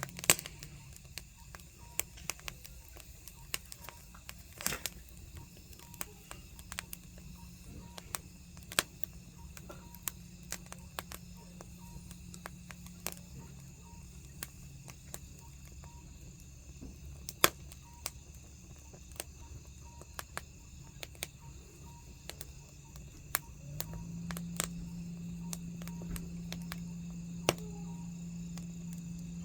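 Wood fire crackling, with irregular sharp pops several times a second and a few louder snaps. A steady low hum underneath fades out near the start and comes back near the end.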